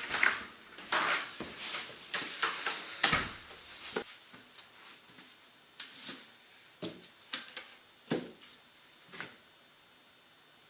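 A run of knocks and clatters from objects being handled, dense for the first four seconds, then single knocks every half second to a second, ending about nine seconds in.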